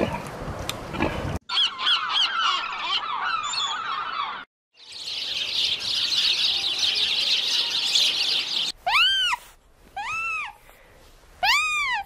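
A run of short animal clips. First a pig's snuffling, then high chirping, then a steady high hiss with chirps. Last come three loud squealing calls that rise and fall in pitch, from sea otters.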